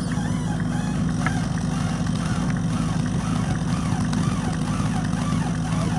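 Chainsaw engine running steadily at high revs, cutting through a large tree trunk.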